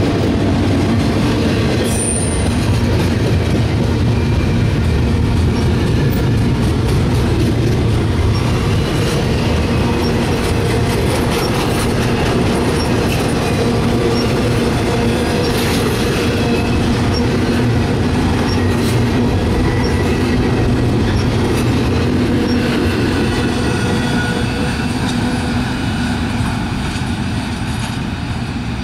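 Double-stack container train's well cars rolling past close by: a steady heavy rumble of wheels on rail, with faint clicks and several brief high wheel squeals, one sharp squeal about two seconds in. The sound eases off over the last few seconds as the final car passes and moves away.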